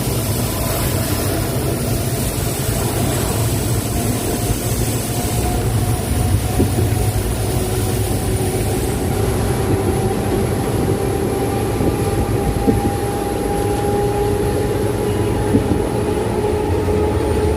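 WDP4D diesel locomotive, with its EMD two-stroke engine, hauling a passenger train as it accelerates. A steady low rumble runs throughout, with faint tones that climb slowly in pitch from about halfway through.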